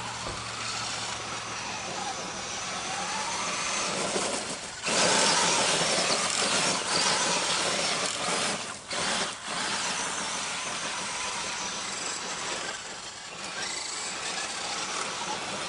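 Electric RC truck's motor whining and rising and falling in pitch as it is driven around. It gets louder from about five seconds in and cuts out briefly a few times between about five and ten seconds in.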